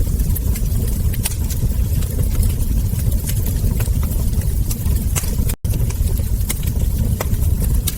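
Wood fire crackling, with frequent small sharp pops and snaps over a steady low rumble. The sound cuts out for an instant a little past halfway, then resumes.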